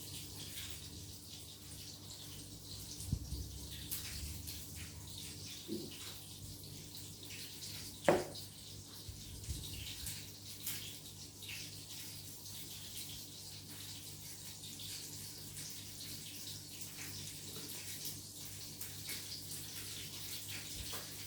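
Chicken fillets frying in hot oil in a pan: a steady sizzle with scattered small pops and clicks.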